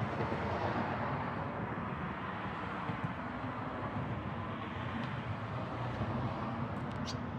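Steady rushing outdoor background noise, with a few brief high chirps near the end, likely from the nestling birds.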